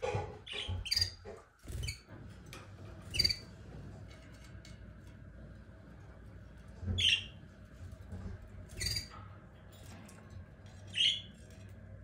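Small caged birds giving short, high chirps, spaced a second or several seconds apart, about half a dozen in all. A few soft knocks sound in the first two seconds.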